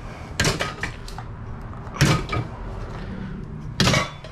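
Clattering knocks of scrap metal being handled in a dumpster, in three short bursts about a second and a half apart.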